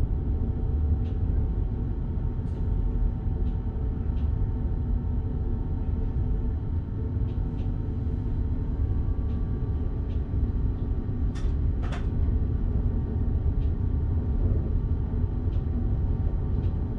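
Electric passenger train running along the track, heard from inside the driver's cab: a steady low rumble of wheels on rail with a faint even hum. Scattered light clicks and rattles, with two sharper clicks a little past the middle.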